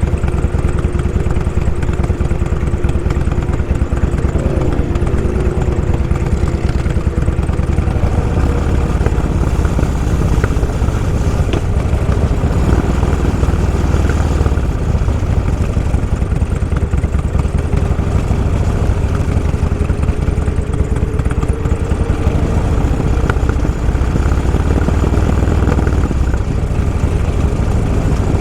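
Motorcycle engines running at low speed in traffic: a steady, loud low rumble, with the pitch of other engines drifting up and down a little as they pass.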